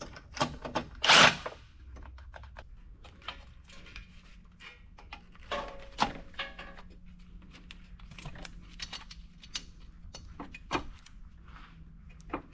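Scattered clicks, knocks and thunks of tools and parts being handled during truck assembly work, the loudest about a second in, over a faint steady hum.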